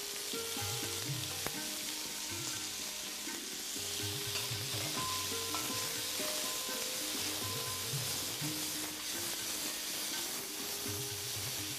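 Chopped bell peppers sizzling steadily in hot olive oil in a stainless steel pan, stirred and turned with a slotted spatula.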